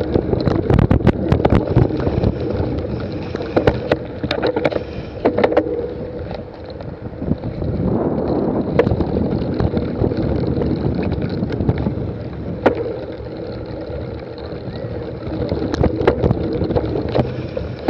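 Wind buffeting the microphone over a steady rumbling hum, with frequent sharp clicks and rattles that come thickest in the first few seconds.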